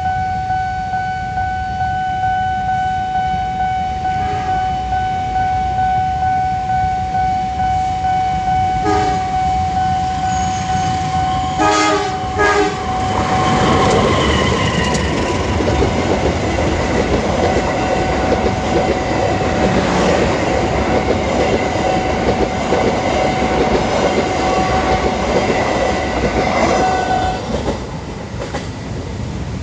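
KAI Tegal Ekspress diesel-hauled passenger train approaching a level crossing, sounding its horn in short blasts at about 9 and 12 seconds. It then passes at speed with rolling wheel noise and clickety-clack that fade near the end. A steady warning tone of the level-crossing alarm sounds underneath until the train has passed.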